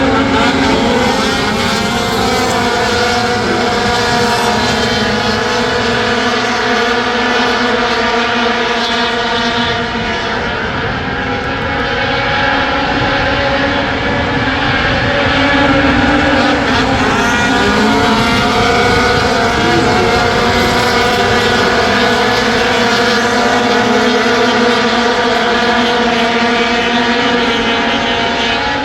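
A pack of sport-class race trucks running hard around a short oval, their engines blending into a steady loud din, with pitch rising and falling as trucks pass and lift for the corners.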